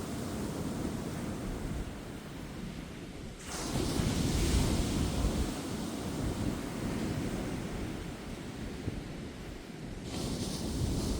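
Ocean surf on a beach: a wave breaks about three and a half seconds in and hisses as it washes up for several seconds, and another starts near the end. Wind buffets the microphone underneath.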